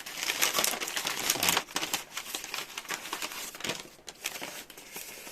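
Crinkly wrapping on a packet of ajari mochi (Kyoto sweet bean-paste cakes) being handled and torn open. The crackling is loudest in the first two seconds and thins out to lighter rustling later on.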